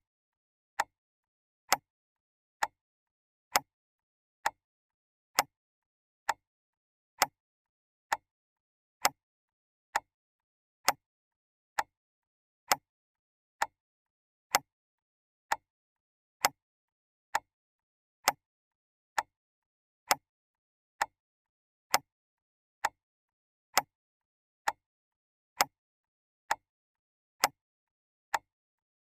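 Clock ticking: single sharp ticks at an even pace, a little faster than one a second, with silence between them.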